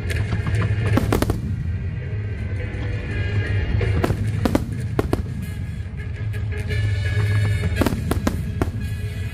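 Aerial fireworks shells bursting in quick clusters of sharp bangs: one about a second in, another around four to five seconds in, and a third near the end.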